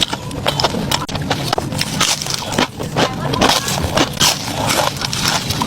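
Close-miked chewing of french fries: dense, irregular crisp crunches and wet mouth clicks.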